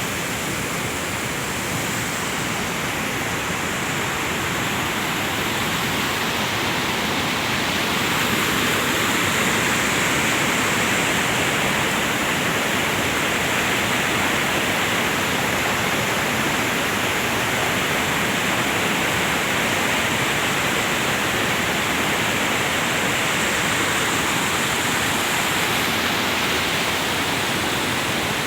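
Lahar flood, a rain-triggered volcanic mudflow from Semeru, rushing down the river channel as a steady, heavy wash of water noise that grows slightly louder about a third of the way in.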